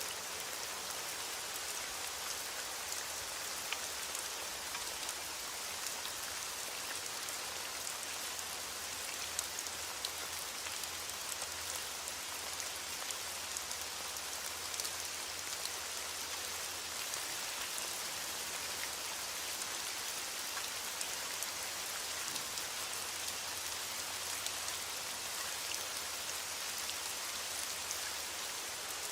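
Steady rain falling, a constant hiss with many fine drop taps throughout.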